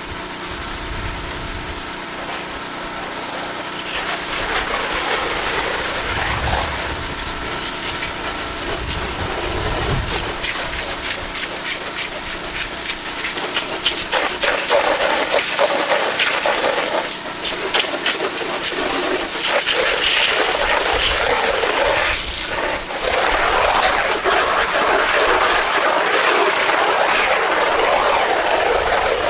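Pressure washer engine running steadily under the hiss of the high-pressure water spray. The spray grows louder and harsher about halfway through.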